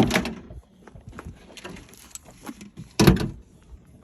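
Two loud metallic bangs about three seconds apart, with small clicks and rattles between, as the door and body of a junked car are handled.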